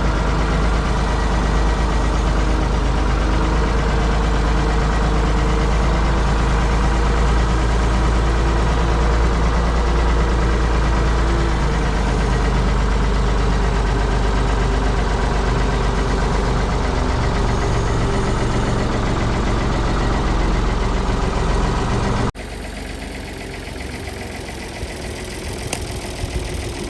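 Ford 555 backhoe loader's engine running steadily under way. About 22 seconds in the sound drops off abruptly to a quieter, thinner engine sound.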